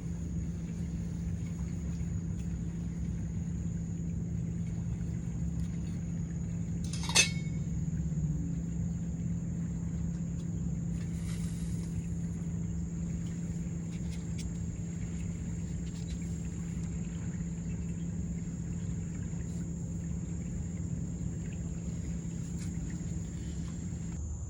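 Steady low engine rumble with a constant high-pitched insect drone over it, and one sharp click about seven seconds in.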